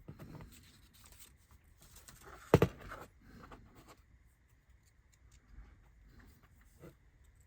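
Small handling sounds of laser-cut kit parts and tools being worked at a bench: light rustles and clicks, with one sharp knock on the work surface about two and a half seconds in.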